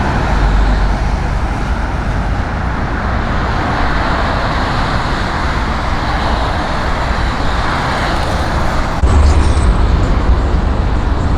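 Steady road vehicle and traffic noise with a deep rumble. It changes abruptly about nine seconds in and grows louder in the low end.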